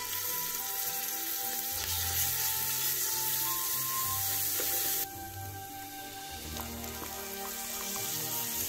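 Homemade garlic seasoning sizzling in hot oil in an aluminium pan while it is stirred with a silicone spatula. The sizzle turns quieter about five seconds in and builds again near the end.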